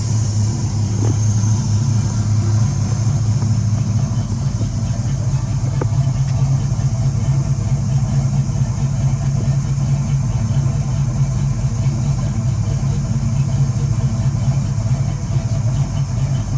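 Box Chevy's engine idling steadily after a tune-up.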